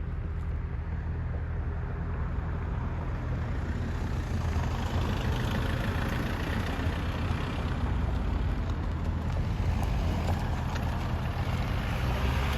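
Jet airliner engines rumbling steadily, with a broad rushing roar building from about four seconds in.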